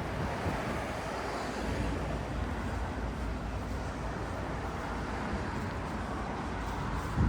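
Steady outdoor background noise: a continuous low rumble with hiss, with a low thump right at the end.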